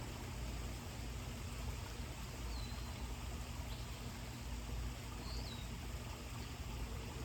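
A bird gives short, high chirps twice, once about two and a half seconds in and again about five seconds in, over a steady low background rumble.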